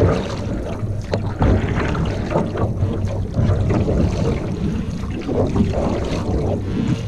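Wind rumbling on the microphone aboard a canoe on open water, with irregular short splashes of water.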